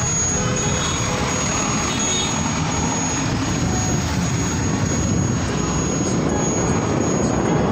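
Steady rumble and wind noise of a vehicle on the move, running evenly without a break.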